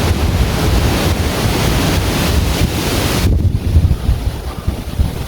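Strong mountain wind buffeting the microphone in gusts, with a rushing hiss that cuts off suddenly about three seconds in.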